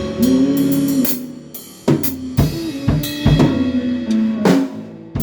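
Live band music with a drum kit: bass drum and snare hits and cymbal crashes played as a fill, after a held pitched note in the first second.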